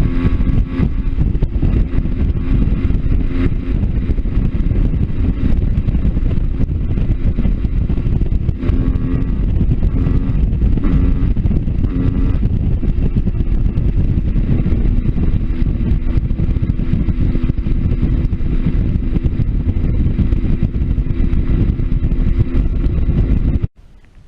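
Motorcycle engine running at a steady cruise, heard over heavy wind rumble on the microphone; it cuts off abruptly near the end.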